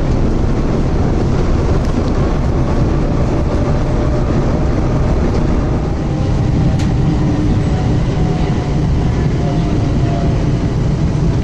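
Passenger train running, heard from inside the carriage: a steady low rumble and noise with a faint wavering whine.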